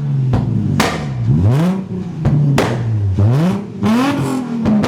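Car engine revved hard again and again, its pitch climbing and dropping about five times, with several sharp cracks along the way.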